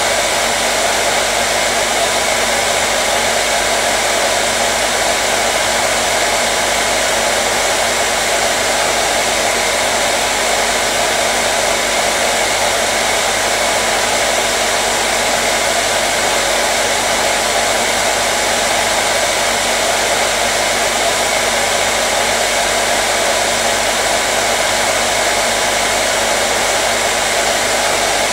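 Hair dryer running continuously at a steady speed: an unchanging loud rush of air with a faint motor hum, played as white noise to calm a colicky baby.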